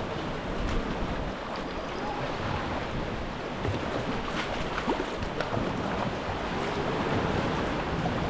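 Sea water sloshing and washing around a sea kayak: a steady wash of surf with small splashes now and then.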